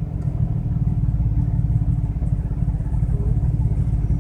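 BMW 335i's turbocharged straight-six running roughly, its low engine note choppy and uneven: it is misfiring, with cylinder 6 far over the rough-running limits and the misfire warning on.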